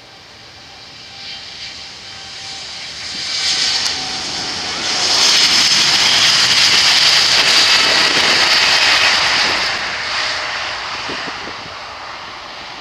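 Jet airliner passing by: the engine noise builds steadily, peaks loudly through the middle with a strong high hiss, then fades toward the end.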